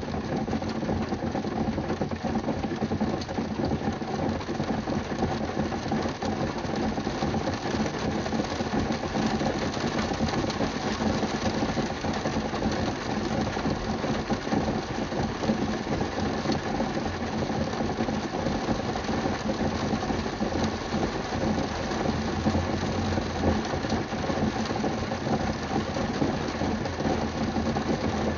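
Rain falling on a car's roof and windows, heard from inside the car: a dense, steady patter of many small drops. A steady low hum runs underneath.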